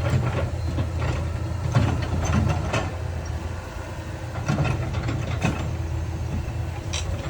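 Heavy diesel earthmoving machinery running with a steady low rumble, with several sharp clanks and knocks scattered through it.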